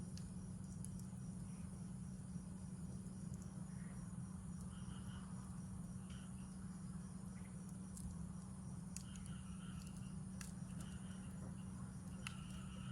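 Crickets chirping: a steady high trill with short repeated chirps, joined by a few sharp pops from a campfire, over a steady low hum.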